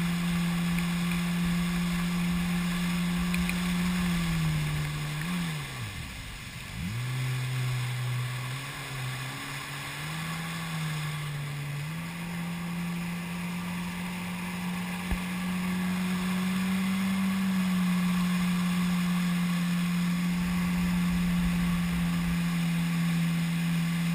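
Jet ski engine running at speed with a steady droning note. About four seconds in the throttle comes off and the pitch sinks away, and around twelve seconds in it is opened up again and holds steady at high revs.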